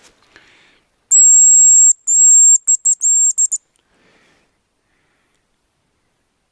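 Hazel grouse decoy whistle blown close by: a long, thin, high whistle, a second long note, then a quick string of short notes, imitating the hazel grouse's call.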